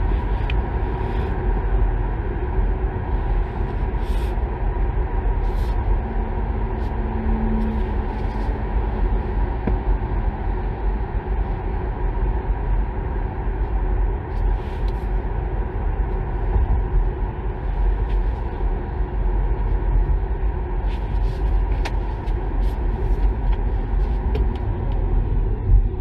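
Steady road and tyre rumble of a 2023 Kia Niro EV driving at around 65–80 km/h, with no engine note, plus a few faint clicks. The noise drops off right at the end as the car slows under regenerative braking.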